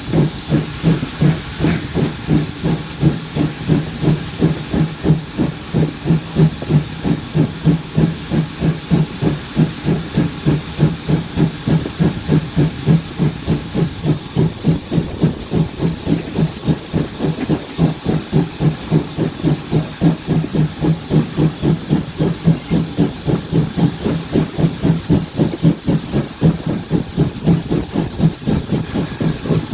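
GWR 57xx-class 0-6-0 pannier tank 7714 working hard up a gradient: its exhaust beats come in an even, rapid rhythm of about four a second, over a steady steam hiss.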